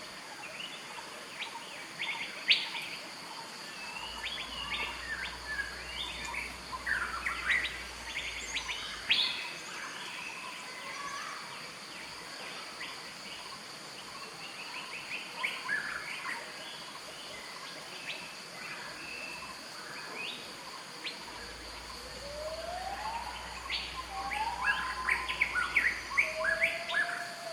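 Wild birds calling in forest, with many short, scattered chirps and a steady high tone underneath. Near the end the calls grow louder and busier, with a few rising whistled notes.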